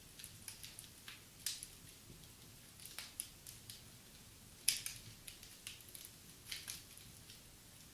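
Wood fire crackling in a fireplace: irregular small pops and snaps over a faint hiss, with the sharpest pop about halfway through.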